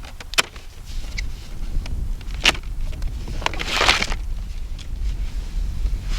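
Unpacking and handling of a new power auger: a few sharp knocks and clicks, with a brief rustle about four seconds in. Under them runs a steady low rumble, typical of wind on the microphone.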